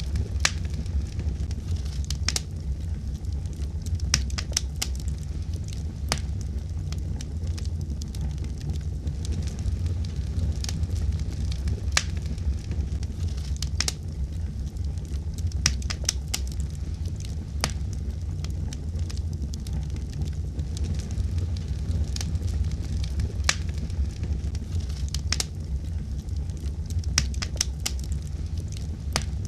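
Wood fire burning in a fireplace: a steady low rumble of the flames with sharp, irregular crackles and pops of the burning logs, several a second.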